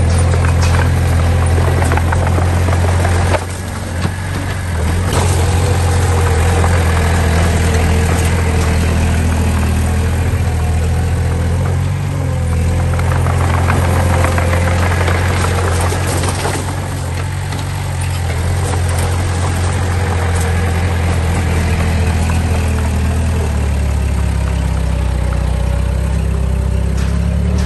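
Diesel engine of a heavy earthmoving machine running steadily with a deep hum, briefly dropping in level about three and a half seconds in.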